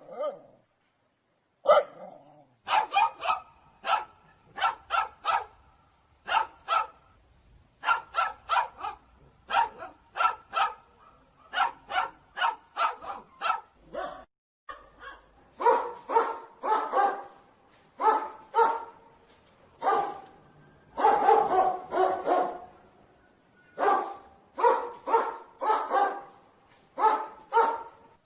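Dog barking over and over in quick runs of two to four barks with short pauses between them.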